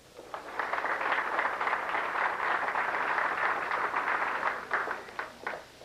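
Audience applauding. The clapping starts about half a second in, holds steady, then thins to a few last claps near the end.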